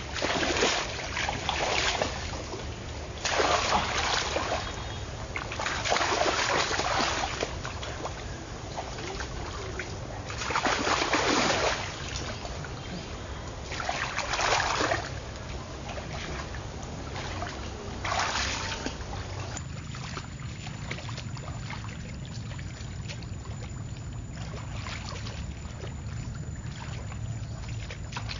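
Water splashing and sloshing in irregular bursts a second or two long, several in a row, giving way about two-thirds of the way in to a steadier, quieter trickling.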